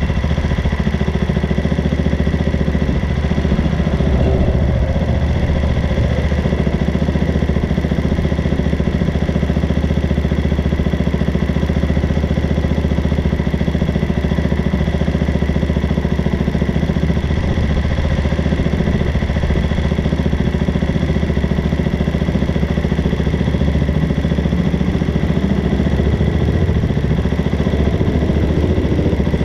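Dual-sport motorcycle engine idling steadily at a standstill, close to the microphone.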